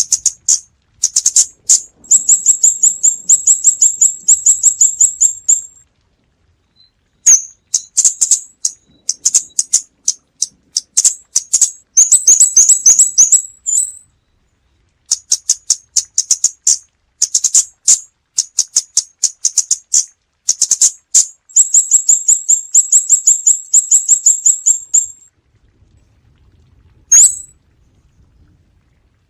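Scarlet-backed flowerpecker calling: runs of rapid, very high, sharp ticking notes, each run lasting a few seconds, with short silent gaps between runs and a few single notes near the end.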